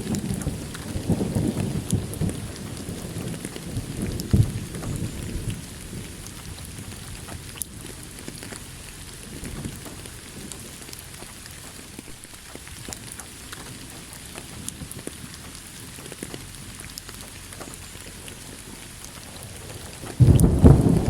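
Steady rain with scattered drop ticks, as a low roll of thunder fades out over the first few seconds. Near the end a new loud roll of thunder starts suddenly.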